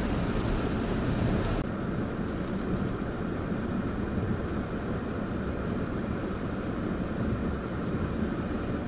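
Tropical-storm wind buffeting the microphone in a steady low rumble, mixed with the wash of storm-surge waves. About a second and a half in, the higher hiss drops away abruptly while the rumble goes on.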